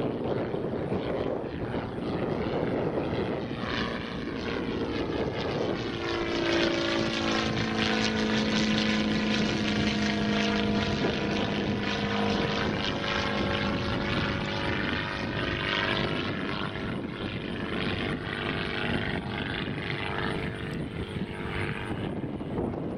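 Sonex homebuilt light aircraft's propeller engine at takeoff power passing by: the steady engine drone comes in out of the wind noise about four seconds in, is loudest in the middle, then fades away, leaving wind on the microphone near the end.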